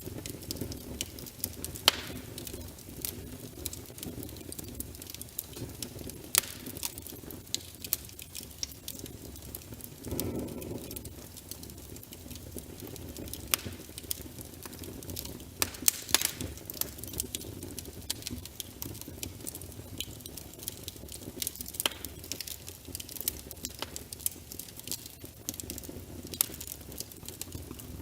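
Wood fire burning in a fireplace, logs crackling with irregular sharp pops over a low steady rumble of flame. A brief louder surge of flame noise comes about ten seconds in.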